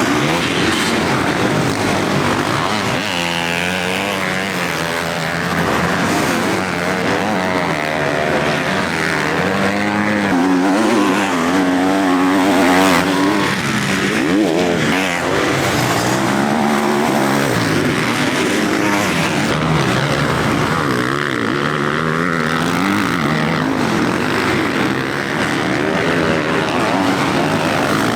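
Several motocross bikes racing, their engines revving up and down as they accelerate, shift and back off, several at once and overlapping.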